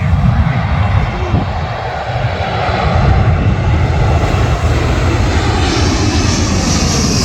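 Jet airliner passing low overhead: a loud, deep rumble, with a high jet whine building in the last couple of seconds.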